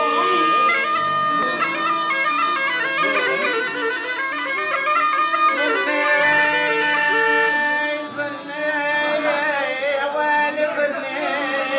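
Bagpipe playing a quick, ornamented melody over a steady drone.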